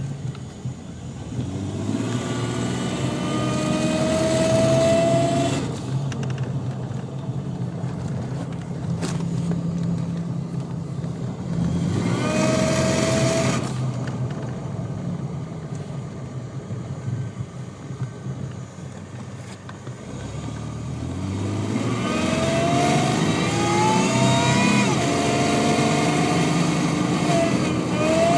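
Supercharged first-generation Toyota Tacoma engine pulling hard three times, with a whine that rises in pitch during each pull and steadier running between, heard up close from beside the firewall. The owner is trying to capture an extra engine noise besides the supercharger's.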